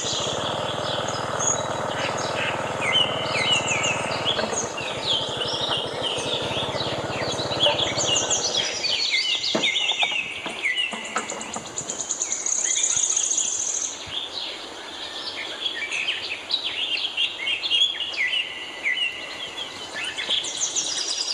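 Many birds chirping and calling in a busy chorus. A steady low hum runs underneath and stops about nine seconds in, with a few knocks around then.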